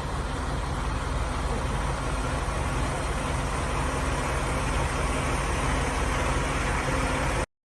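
A steady engine running: a low hum under a noisy hiss at an even level. It cuts off abruptly about seven and a half seconds in.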